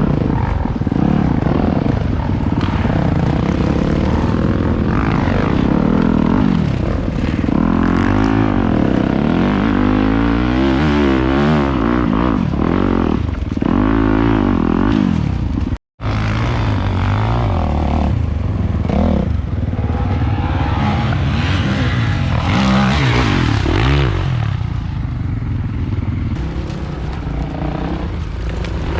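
Dirt bike engines revving hard and rising and falling in pitch as the bikes climb, with a brief total break about halfway through.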